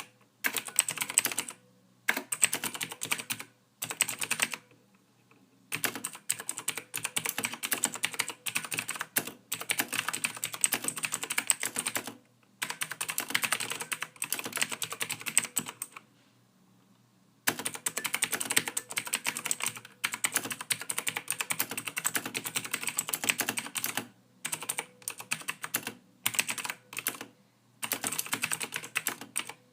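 Computer keyboard typing: rapid runs of key clicks in bursts of a few seconds, broken by short pauses, the longest about five seconds in and again around sixteen seconds in.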